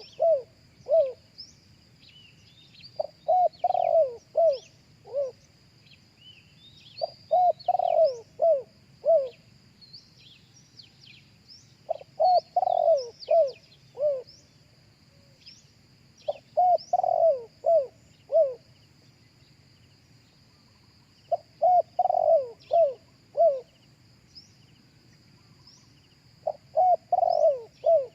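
Spotted dove cooing: its multi-note phrase of low, hooting coos repeats about every four to five seconds, six times over. A steady high insect whine and the short chirps of small birds run behind it.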